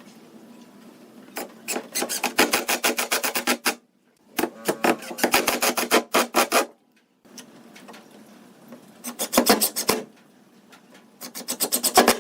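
A hand tool scraping back and forth on wood in quick, even strokes, about six a second, in four bursts with short pauses between.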